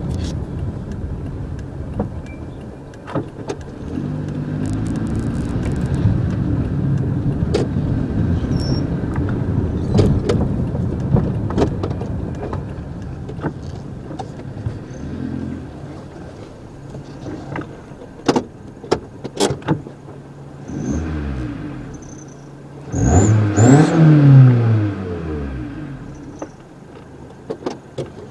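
Toyota Corolla engine running, with a few sharp knocks along the way, then revved hard once near the end, its pitch rising and falling. A high whistle from an exhaust-tip turbo whistler rises with the rev.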